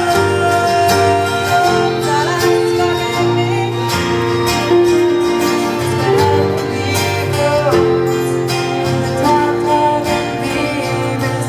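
A live pop band playing, with guitar over held chords that change every second or two, and a gliding melody line on top.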